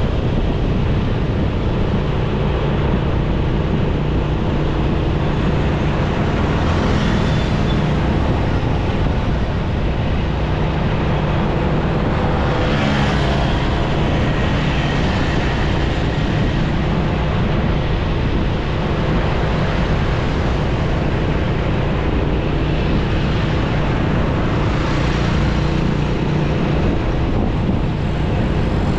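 Onboard sound of a motorcycle riding in city traffic: its engine running steadily under a constant haze of road and traffic noise, with the engine note shifting a little as it speeds up and slows.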